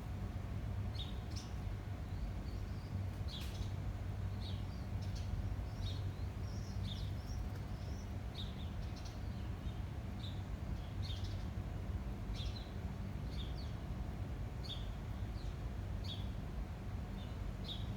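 Small birds chirping, with short high chirps coming every half second to a second, over a steady low rumble.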